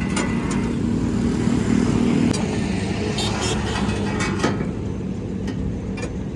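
A motor vehicle engine running as a steady low drone, with a few sharp clicks scattered through it.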